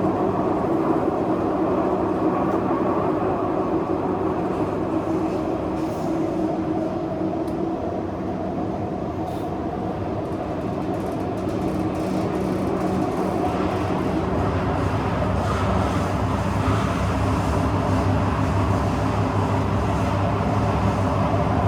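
Kawasaki–CRRC CT251 metro train running between stations, heard from inside the car: a steady rumble and traction-motor hum, thick with the repeated knocking of flat wheels. A lower hum comes in about two-thirds of the way through.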